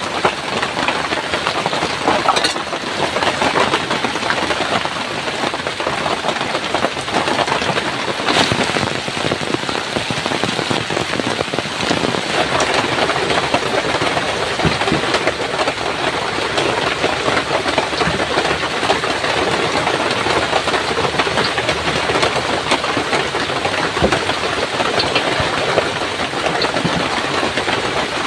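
Heavy rain falling steadily, with a few sharper drop hits standing out.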